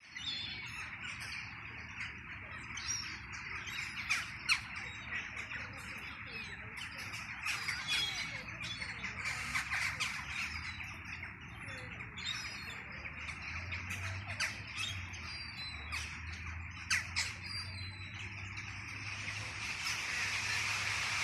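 Many birds chirping and calling at once, a busy stream of short, high calls over a steady hiss, with the hiss growing louder near the end.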